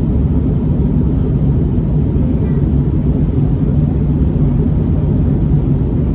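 Steady, low cabin rumble of an Airbus A321neo in the climb: engine and airflow noise with a faint steady hum, unchanging throughout.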